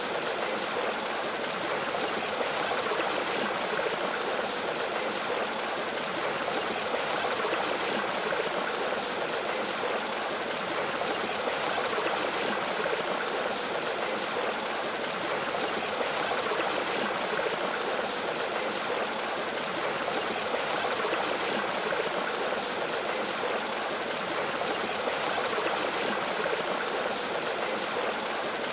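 Mountain stream flowing over rocks and a small waterfall: a steady, even rush of water.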